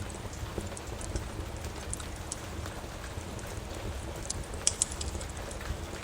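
Wood fire crackling, with scattered sharp pops and a cluster of louder ones about three-quarters of the way through, over a steady low rush of rain.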